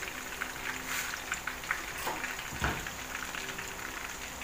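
Breaded fish fillet frying in hot oil in a pan, the oil crackling and spattering in a steady stream of small pops, with one dull knock about two and a half seconds in.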